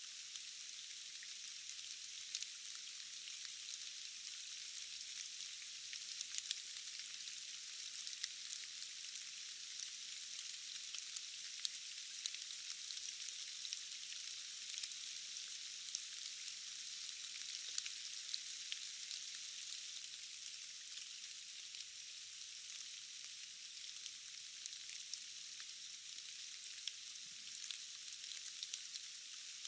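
Steady rain in a forest: an even, high hiss with many scattered sharp ticks of single drops, and no low rumble beneath it.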